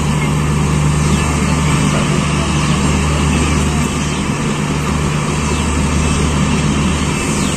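Passenger train with LHB coaches running: a steady rumble with a low, even hum and no breaks.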